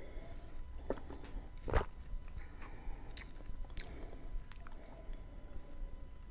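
Close-miked mouth sounds of chewing a soft bean dish with onion and tomato: scattered wet clicks and smacks, the loudest a little under two seconds in.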